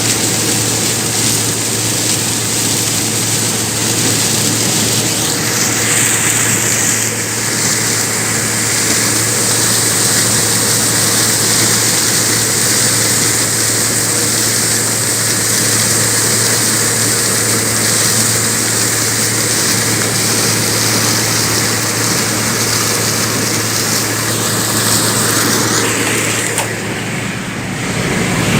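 Corn thresher running steadily: a constant low engine hum under an even rushing noise. The noise changes character about seven seconds in and dips briefly near the end.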